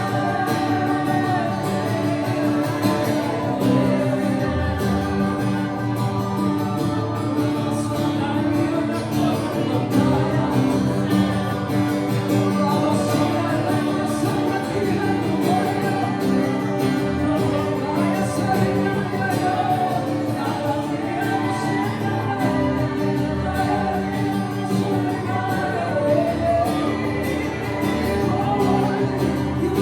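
Live worship music: a band with guitar playing a praise song while voices sing along.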